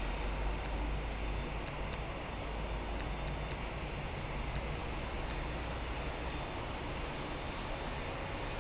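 Steady jet aircraft noise, a low rumble under an even roar, with a few faint ticks above it.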